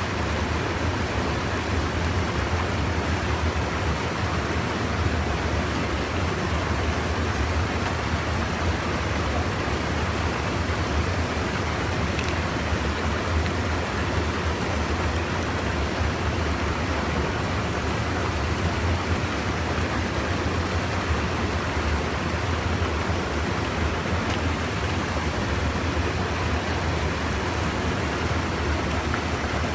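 Steady, unbroken rush of river water spilling over a small check dam.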